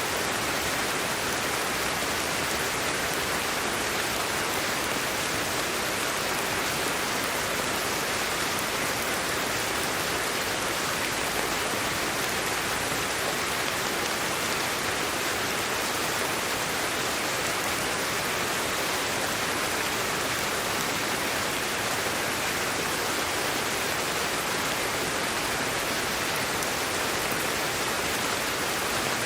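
Steady white noise: an even, unchanging hiss, fullest in the middle and upper range with little bass.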